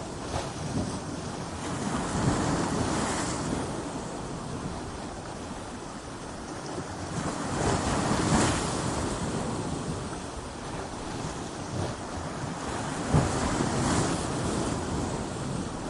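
Ocean waves breaking against coastal rocks: a continuous wash of surf that swells in three surges, the biggest about halfway through, with short sharp splashes on the crests.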